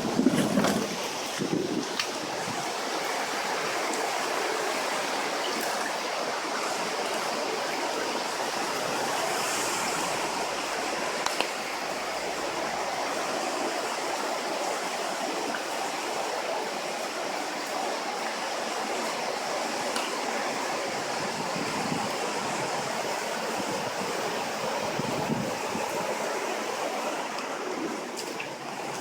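Floodwater running steadily in a continuous rush, with a few brief knocks in the first couple of seconds.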